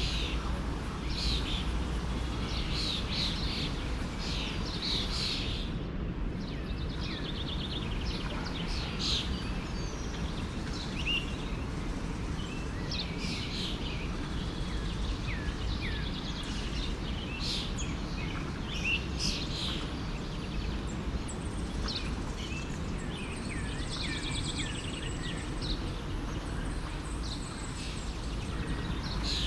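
A stream flowing steadily, with many small birds chirping and singing over it throughout.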